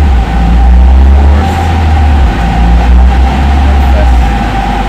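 Turbocharged Mazda MX-5 engine in a Nissan Micra running at low revs, around 2000 rpm, under light load on a rolling-road dyno, heard from inside the cabin as a steady low drone. The drone changes step about two seconds in and again near the end as the car is shifted up into fourth and then fifth gear.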